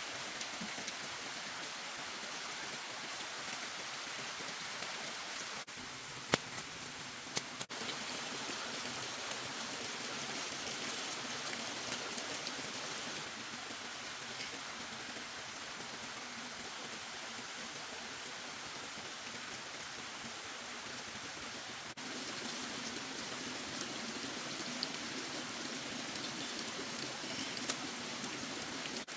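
Steady rain falling, an even hiss, with a few short knocks about six to seven seconds in.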